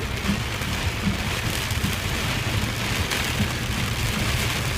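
Heavy rain coming down hard, a steady even hiss with a low rumble underneath.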